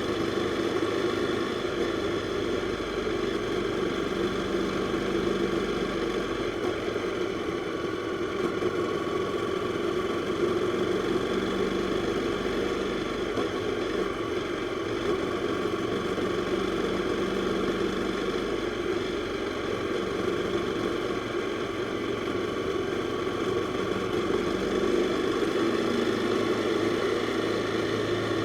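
Jawa 42's single-cylinder four-stroke engine running steadily at an even engine speed, with no revving up or down.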